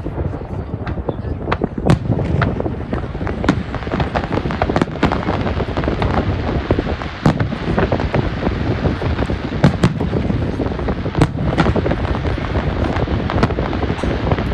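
Fireworks display: a dense, irregular run of sharp bangs and crackles over a continuous low rumble.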